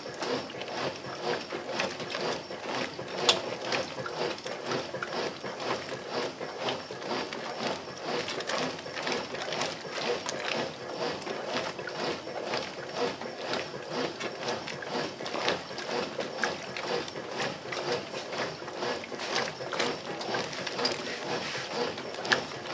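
Brastemp BWL07A top-loading washing machine agitating a load of dish towels in soapy water: the agitator motor and gearbox are heard as a steady run of rapid clicks over the sound of churning water.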